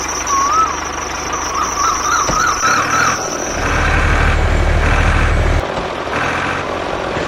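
Tractor-type engine running with a fast, even chugging rhythm that gets louder for a couple of seconds in the middle, over a steady high whine. Short warbling chirps come in the first three seconds.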